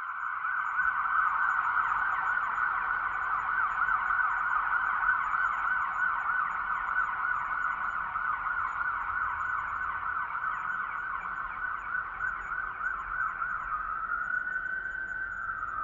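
Electronic police siren sounding a rapid up-and-down yelp. Near the end it slows into a long rising and falling wail.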